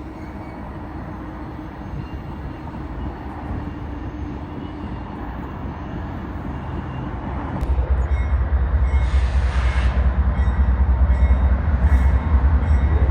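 A train approaching and passing close by: the rail noise grows steadily louder, then a heavy low rumble comes in suddenly about eight seconds in as the train reaches the spot.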